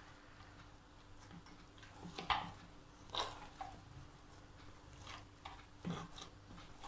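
Hands kneading a soft rice-flour and gram-flour dough in a bowl, a few soft sticky squishes over faint room tone.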